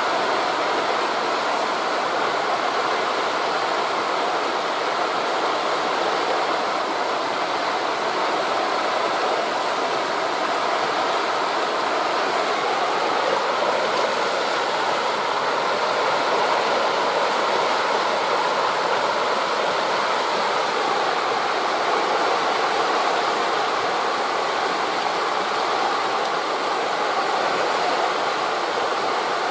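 Steady rushing of wind through tree leaves blended with the wash of sea waves on a beach, an even, unbroken noise with no distinct single events.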